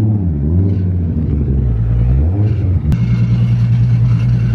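Modified performance car engines idling and being blipped, the pitch rising and falling in short revs a few times. About three seconds in there is a sharp click, then a steady low idle.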